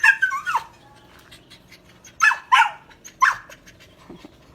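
A dog barking: about five short high barks that drop in pitch, coming in quick pairs with pauses between.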